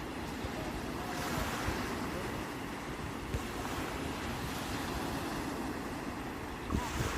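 Sea waves breaking and washing up the shore in a steady surf noise, with a louder hissing wash about a second in and another near the end. Wind buffets the microphone with a low rumble.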